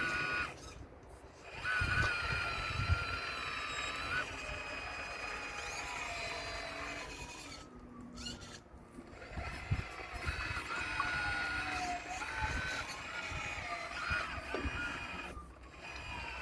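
Electric motors and hydraulic pump of a radio-controlled Caterpillar excavator model whining as it works, the pitch stepping and gliding with the movements, with low knocks underneath. The whine drops out briefly about a second in, around eight seconds in, and near the end.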